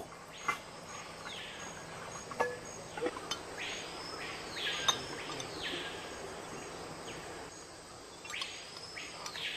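A bird calling: whistled calls that rise and then fall in pitch, coming in groups of two or three, over a steady insect hiss. A few sharp clicks fall in the first half.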